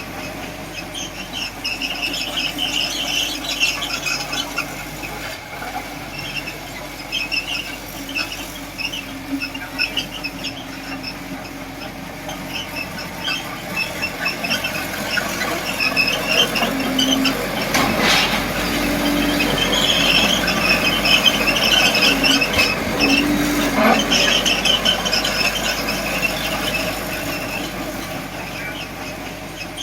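Komatsu D20P crawler bulldozer at work, its steel tracks and undercarriage squealing in short, repeated high-pitched bursts over the running diesel engine.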